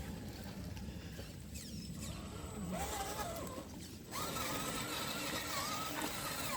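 RC crawler's electric motor whining in two throttle bursts, a short one about halfway through and a longer, louder one from about two-thirds of the way in, as the wheels are spun to clean the tyres. The pitch wavers up and down with the throttle over a steady background hiss.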